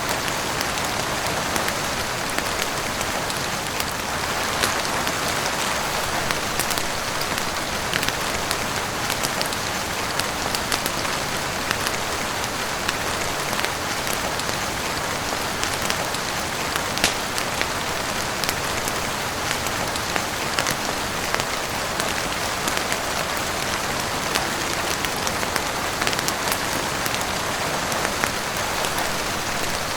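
Heavy rain falling steadily on a roof, a dense even hiss dotted with scattered sharp ticks.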